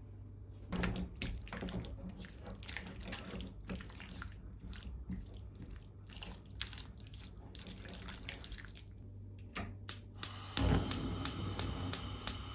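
Water from a kitchen tap running and dripping, with small scattered clinks and knocks of kitchenware. From about ten seconds in, a louder steady rush with regular sharp ticks, about two or three a second.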